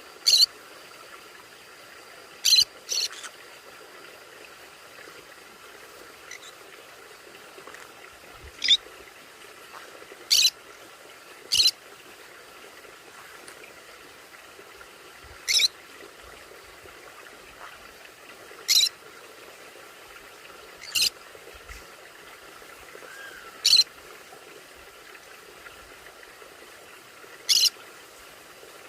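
Conures giving short, sharp, high-pitched calls, about eleven single squawks at irregular intervals, each well under half a second long.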